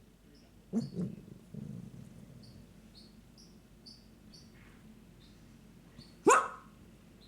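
A house pet calling twice: a short double call about a second in and a louder call rising in pitch near the end. Under it, a small bird chirps rapidly, a few high chirps a second.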